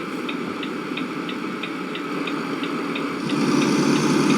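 Turn-signal indicator ticking evenly, about three clicks a second, over a vehicle's engine running. The engine gets louder about three seconds in, as if accelerating.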